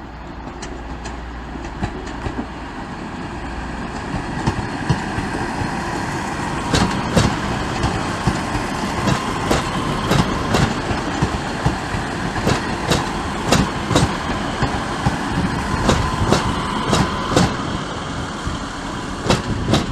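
Train running on the track: a steady rumble that builds over the first few seconds, then a run of sharp wheel clacks over rail joints and points, with a faint whine.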